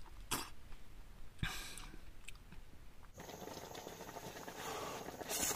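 A person eating a very juicy orange, with a few short wet chewing and slurping sounds. About three seconds in, these give way to a steady hiss, with a short sharp noise near the end.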